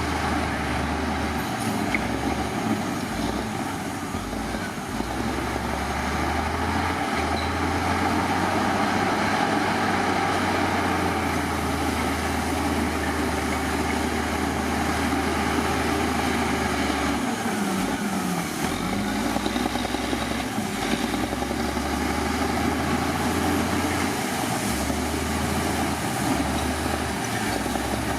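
Heavy diesel earthmoving machinery running steadily, with the engine note dropping and coming back up about two-thirds of the way through, as if lugging under load.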